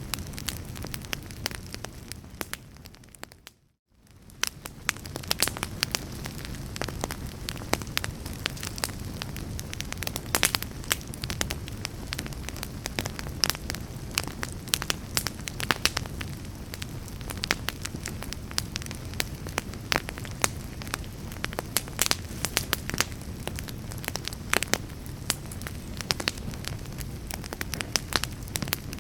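Crackling fire: dense, irregular pops and snaps over a steady low rumble. It fades out about four seconds in, then comes straight back up and runs on.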